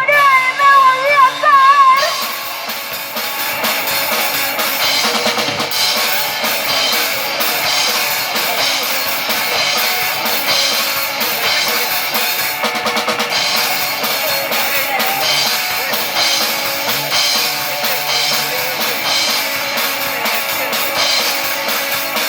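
Live rock band playing a loud, fast instrumental passage, the drum kit prominent with rapid kick and snare hits under guitars. A wavering held note sounds over it for the first two seconds before the full band takes over.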